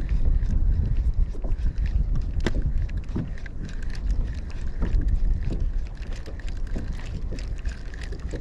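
Wind buffeting the microphone with a steady low rumble, and choppy water slapping and splashing against a kayak's hull in many short irregular hits.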